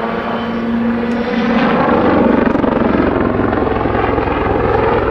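Army Air Corps Westland Lynx helicopter flying a backflip: a steady rotor and turbine-engine sound with a whine early on, growing louder about two seconds in as the aircraft goes over the top.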